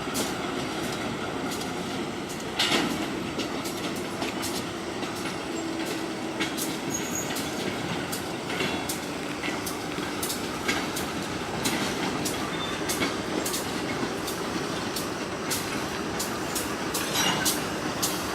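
Freight train cars rolling past at slow speed: a steady rumble with many irregular clicks and knocks from the wheels on the rail, and now and then a brief thin wheel squeal.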